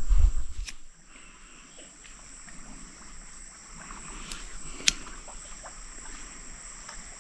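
Steady high-pitched insect drone, crickets or similar, with a few sharp clicks, the loudest about five seconds in. A low rumble of wind on the microphone fades out within the first second.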